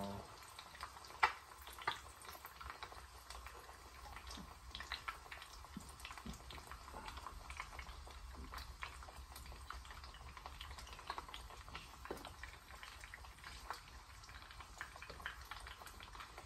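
Eggs frying in bacon fat in a pan: a faint, steady sizzle with scattered small pops and crackles. A sharp click sounds about a second in.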